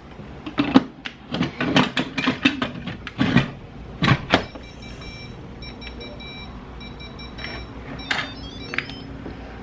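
Clattering knocks as the lid of a Midea electric pressure cooker is fitted and locked, followed by a series of short electronic beeps from its control panel as it is set to cook.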